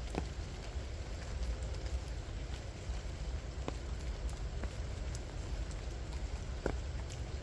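Light rain falling, with individual raindrops landing as irregular, distinct ticks over a steady low rumble.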